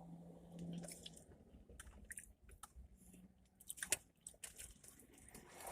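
Faint chewing and small mouth clicks of someone eating a Philly cheesesteak, with a slightly sharper click about four seconds in.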